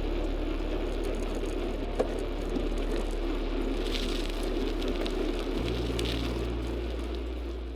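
A steady rushing vehicle noise under background music made of long low sustained notes, which shift to a new chord about two-thirds of the way through. A single sharp click about two seconds in.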